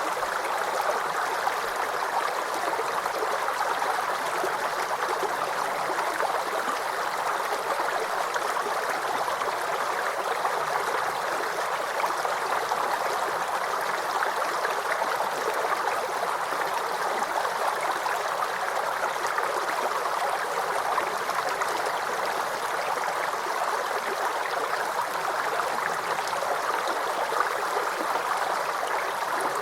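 Small forest creek babbling and trickling steadily, an even rush of water.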